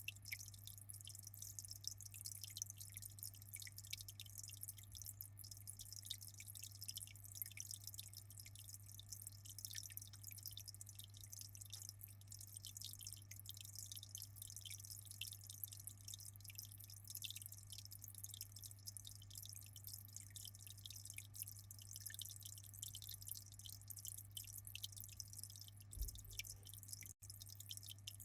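Aquarium water trickling and dripping in a fine, continuous patter, over a steady low hum.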